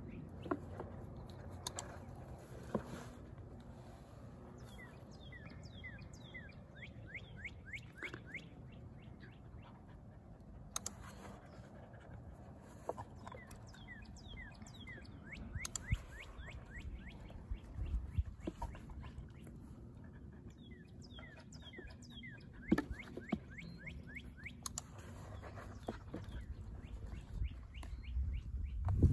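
Songbirds chirping in quick runs of short high notes, over a low rumble, with a few sharp knocks.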